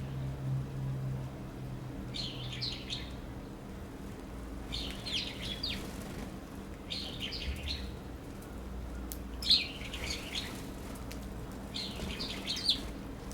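Birds chirping in five short bursts of quick, high notes, a few seconds apart.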